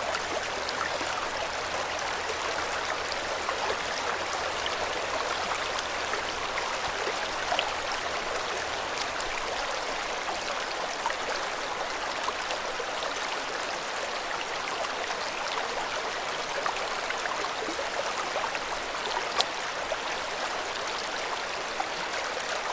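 River water flowing steadily, a continuous rushing and babbling with many small splashes.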